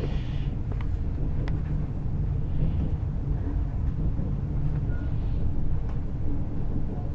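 Passenger train running along the track, heard from inside the carriage: a steady low rumble with a few faint clicks.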